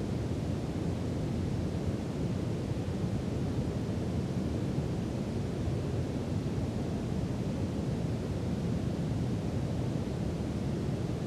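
Brown noise: a steady, even rushing hiss weighted toward the low end, with no changes.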